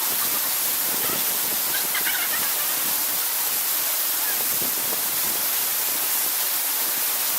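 Waterfall's steady rush of falling water, with a few faint brief chirps about two seconds in.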